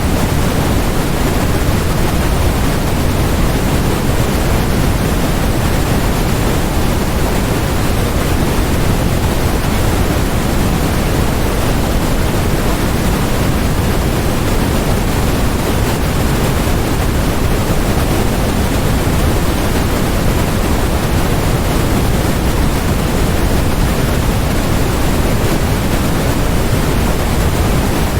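Steady generated noise for focus (a white-noise track): an unchanging even hiss, stronger in the low end than in the highs.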